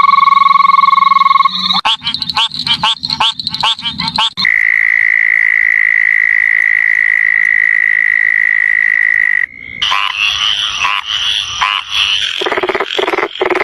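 Frogs calling, in abruptly changing stretches: a steady buzzing trill, then a run of quick pulsed croaks, then one unbroken high-pitched note for about five seconds, then a busy chorus of overlapping croaks.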